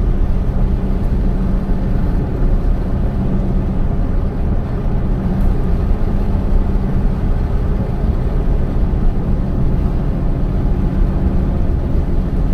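Car driving at a steady pace: continuous low engine and tyre rumble heard from inside the cabin.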